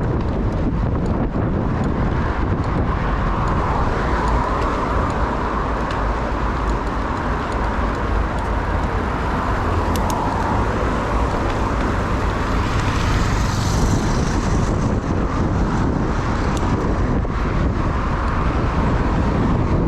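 Street traffic heard from a moving bicycle, with steady wind rumble on the camera microphone. A louder hiss swells and fades about two-thirds of the way through.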